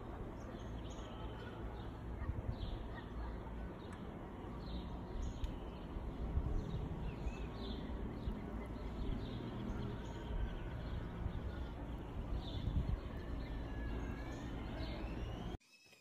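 Outdoor ambience: short bird chirps scattered throughout over a steady low rumble and hiss. The sound cuts off suddenly near the end.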